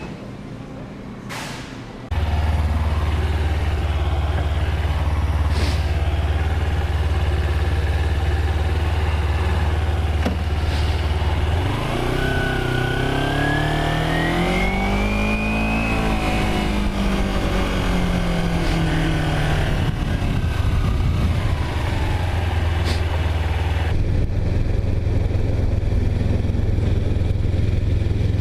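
A vehicle engine comes on suddenly about two seconds in and runs with a steady low hum. In the middle it revs, rising in pitch for a few seconds and then falling back.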